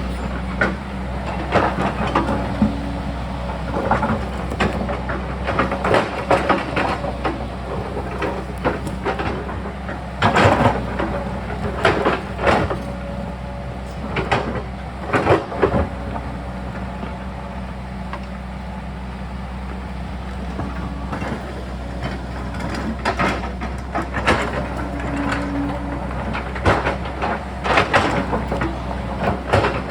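Sany excavator's diesel engine running steadily under load, with irregular clanks, knocks and scrapes as the bucket digs and pries at rock and soil.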